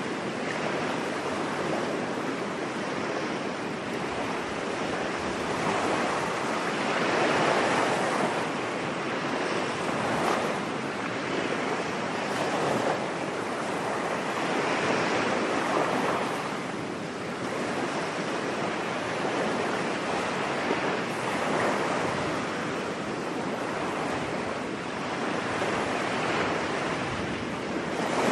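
Ocean waves washing onto a beach, a steady surf noise that swells and recedes every few seconds.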